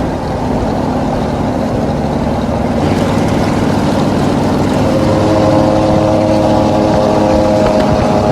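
Pickup truck engine running loud through its exhaust, steady throughout, with a higher steady tone joining about five seconds in.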